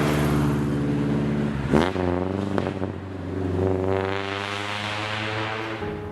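Carbureted four-cylinder engine of a 1977 Toyota Celica running under way. The engine note breaks and dips about two seconds in, then climbs steadily in pitch as the car accelerates, easing off near the end.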